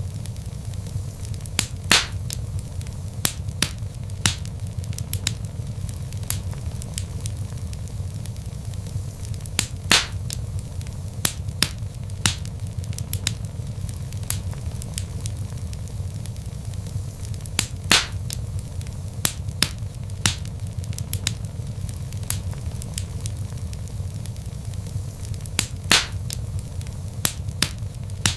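Wood log fire crackling: a steady low rumble of flames with frequent small snaps, and a louder pop about every eight seconds.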